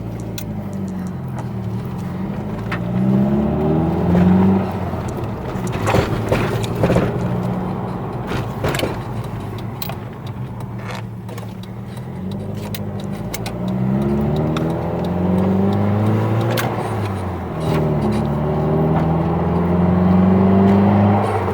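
Mini Clubman S's 1.6-litre turbocharged four-cylinder engine accelerating, its pitch climbing several times and dropping back between climbs as it goes up through the gears. A few sharp clicks come near the middle.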